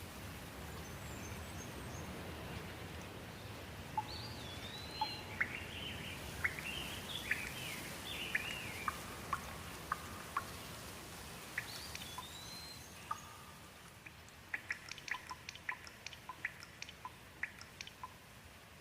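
Steady light rain with birds chirping and calling, and water drops dripping with sharp ticks. In the last few seconds the rain quietens while the drips come thick and fast, several a second.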